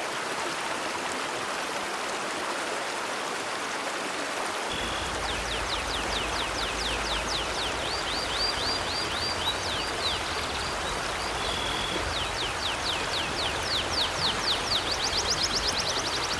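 River water flowing steadily. From about five seconds in, a songbird sings series of quick downward chirps that come faster near the end.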